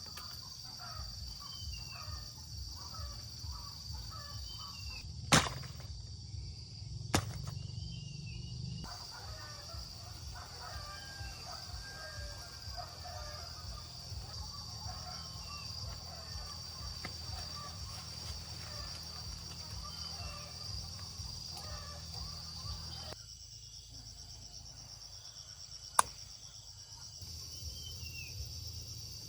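Outdoor ambience: a steady high insect drone with scattered bird chirps over a low rumble. Three sharp clicks stand out, about five, seven and twenty-six seconds in.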